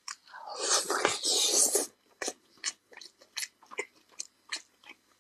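A bite into a chicken drumstick, tearing off the meat in a noisy burst lasting about a second and a half. Then mouth-open chewing with short smacking clicks, about four a second.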